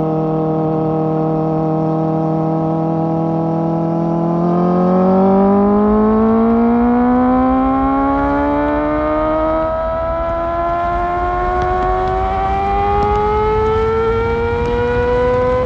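Kawasaki ZX-4R's 399 cc inline-four with an Akrapovic exhaust, holding a steady engine speed, then revving up gradually as the bike accelerates in one gear. The pitch rises slowly and evenly over the last ten seconds or so.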